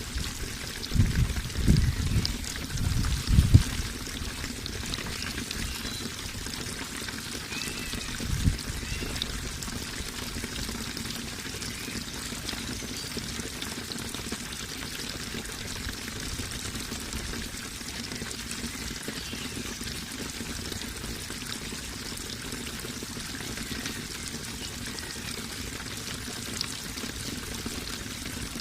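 Water running steadily in a constant rush and trickle, with several low thumps in the first few seconds and one more about eight seconds in.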